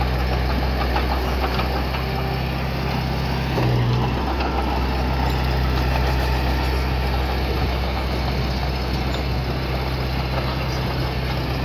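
Diesel engine of earthmoving equipment running steadily at a low, even note, briefly louder about four seconds in.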